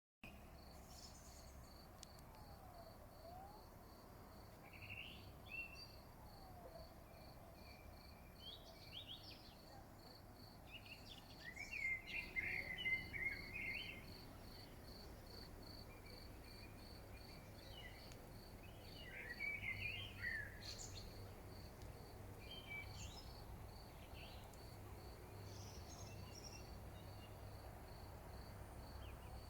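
Birds singing and chirping in scattered short phrases, loudest around the middle and again about two-thirds through, over a steady high pulsing note repeating about three times a second and a faint low rumble.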